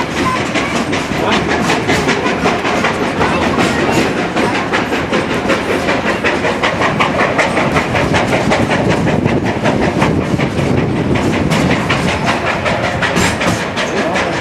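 Steam locomotive No. 40 working hard uphill, its exhaust beating in a quick, even rhythm along with the clatter of the train's wheels on the rails.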